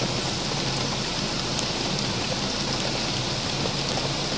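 Heavy rain falling steadily onto standing floodwater, an even hiss of drops splashing on the water's surface.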